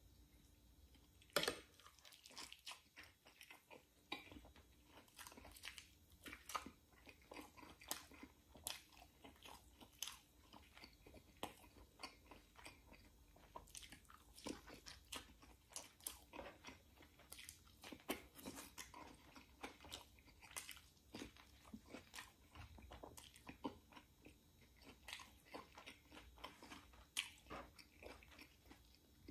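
A person chewing and biting rotisserie chicken close to the microphone: a steady stream of short mouth clicks, with one sharper click about a second and a half in.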